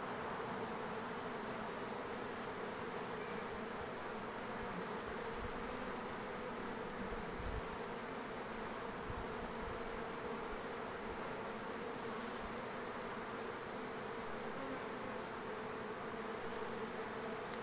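Swarm of honey bees buzzing in a steady hum around the entrance of a hive box as the swarm moves in.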